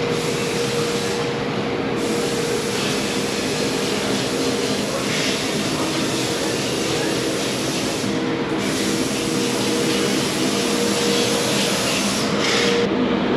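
Steady hum and hiss of workshop machinery, with a constant mid-pitched tone running under a broad hiss.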